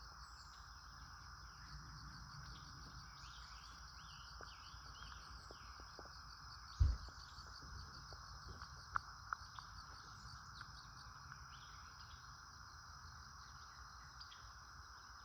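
A steady high-pitched insect chorus with scattered bird chirps and calls over it. One brief low thump about seven seconds in.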